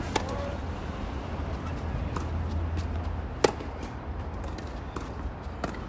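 Tennis ball hit by rackets, sharp pops over a steady low rumble: a lighter hit just after the start, the loudest about three and a half seconds in, and another near the end.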